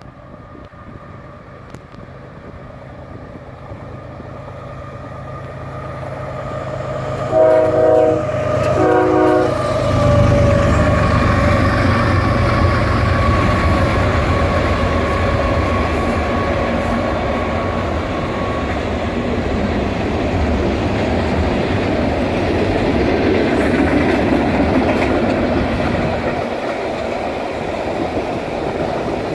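A BNSF freight train approaches, its diesel locomotives' rumble growing louder, and gives two short horn blasts about a third of the way in. The locomotives then pass close with a heavy rumble, followed by a long string of empty ethanol tank cars rolling by with steady wheel noise and clatter.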